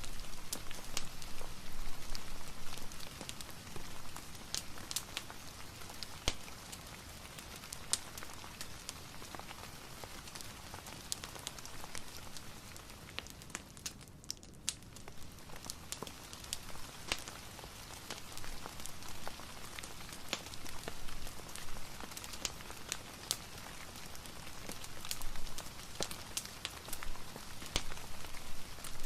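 Steady soft rain mixed with a crackling fireplace: an even hiss dotted with frequent sharp pops and snaps. The hiss briefly thins about halfway through.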